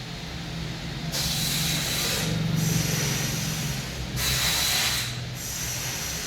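Slow, hissing breaths through the nose during yogic pranayama breathing, each lasting one to two seconds, with new breaths starting about a second in, halfway through and past four seconds. A steady low hum runs underneath.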